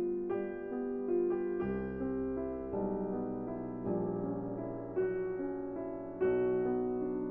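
Background piano music: a slow, gentle melody of sustained notes and chords.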